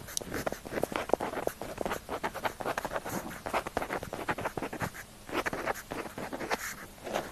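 Pen tip scratching across paper in quick, irregular handwriting strokes, with a brief lull about five seconds in.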